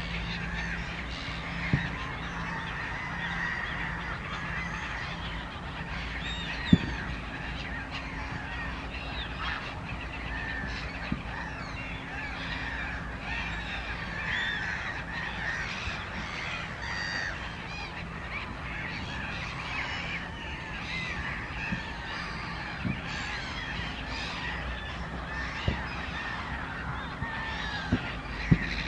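A large flock of waterbirds calling without pause, many overlapping honking calls at once, with a few sharp knocks, the loudest about a quarter of the way in.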